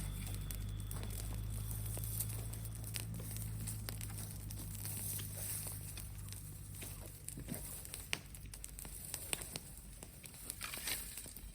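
Bonfire of brushwood crackling, with sharp pops and snaps scattered through. A low steady hum underneath fades away over the first half.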